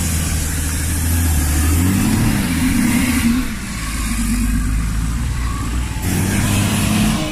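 Off-road 4x4 vehicle's engine running under load, revving up and down about two seconds in and again near the end.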